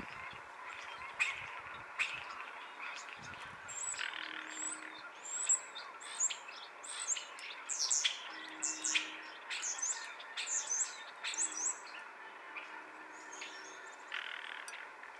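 Small birds chirping: a long run of short, high chirps that bend in pitch, over a steady background hiss. A few sharp clicks come in the first few seconds.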